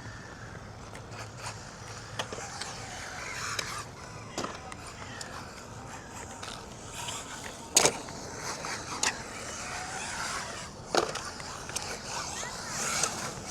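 MJX Hyper Go 1:14 scale brushless RC rally car running, its motor whine rising and falling, with several sharp knocks as it lands from jumps; the loudest knock comes about eight seconds in.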